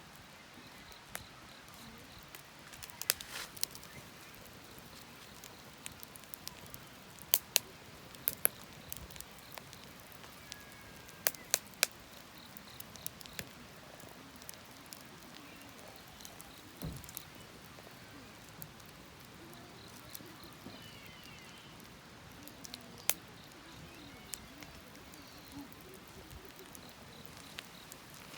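Wood fire crackling, with sharp pops at irregular intervals over a low hiss; the loudest pops come in clusters about a third of the way in and again around the middle.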